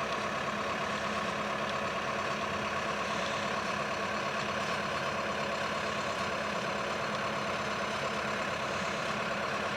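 Track hoe (tracked excavator) diesel engine running steadily, with an even hum and no big changes in pitch or level.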